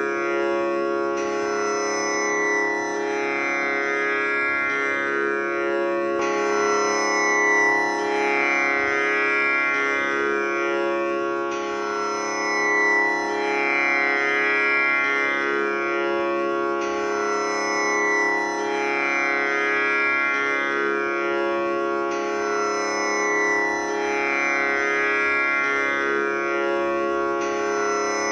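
Tanpura drone tuned to C#: its strings are plucked in turn and left to ring, giving a steady bed of overtones, with the plucking cycle starting over about every five seconds.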